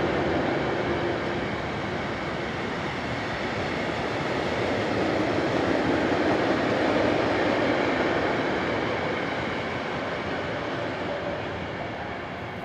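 Open freight wagons of a coal train rolling past on the rails. A steady rush of wheel noise fades slowly near the end as the last wagons go by.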